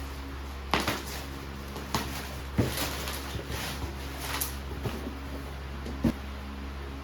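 Objects being handled and set down on a desk: about five light knocks and clacks, spread a second or so apart, over a steady low room hum.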